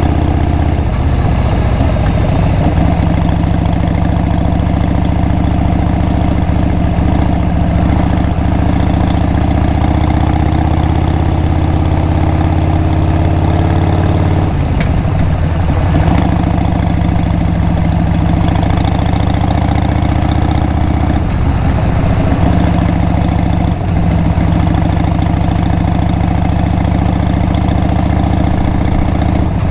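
2002 Harley-Davidson XL883R Sportster's air-cooled 883 cc V-twin running through a Cobra Speedster Short slip-on muffler while riding. The note climbs slowly in pitch, then breaks and settles lower about halfway through and again a few seconds later.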